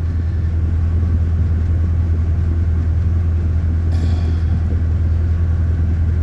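Chevrolet 350 (5.7 L) V8 idling steadily with the air conditioning on, an even low hum heard from inside the vehicle.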